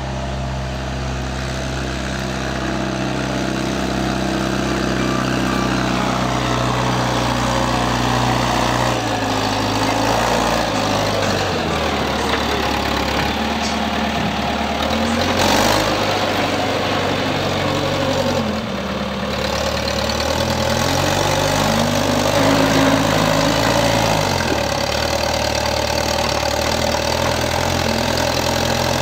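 Tractor engine of a tractor-mounted backhoe running steadily, its engine speed stepping down and back up several times, with a brief sharp noise about halfway through.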